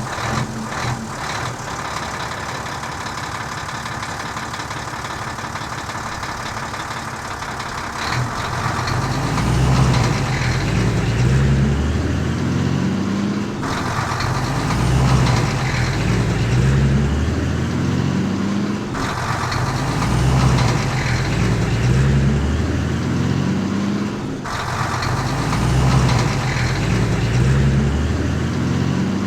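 Heavy vehicle engine running steadily. It grows louder about eight seconds in and carries an uneven, pulsing low throb.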